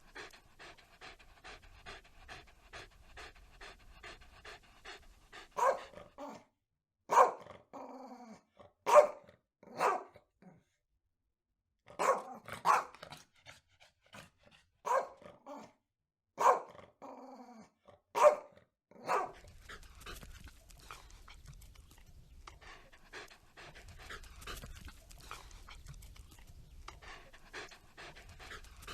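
A dog panting rapidly, about three breaths a second. Then comes a run of about a dozen loud single barks with a short silent break in the middle, and then fainter panting again.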